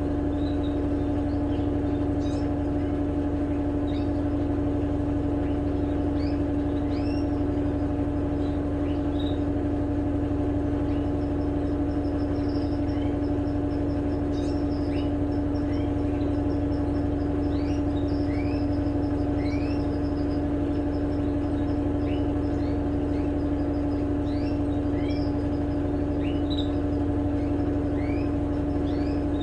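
Electrolux LTE12 washing machine running steadily in its spin cycle: a constant motor hum with one strong steady tone. Birds chirp in short rising calls over it.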